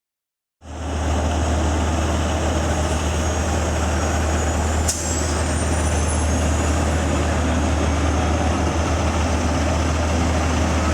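Heavy truck engine running steadily with a deep, even drone. The sound cuts in suddenly about half a second in, and a sharp click comes about five seconds in.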